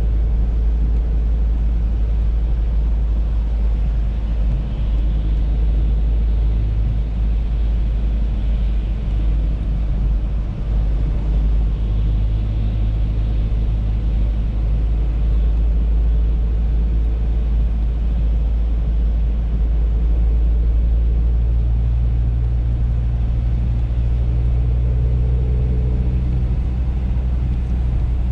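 Audi A3 driving, heard from inside the cabin: a steady low road rumble with engine hum that shifts slightly in pitch now and then.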